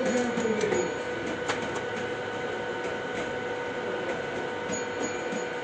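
A steady mechanical hum with a few scattered clicks and taps.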